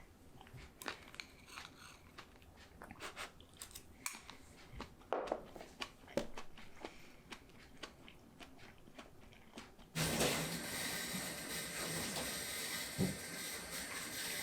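Close-up chewing and crunching of food, with small clicks of tableware. About ten seconds in, a tap suddenly starts running water steadily.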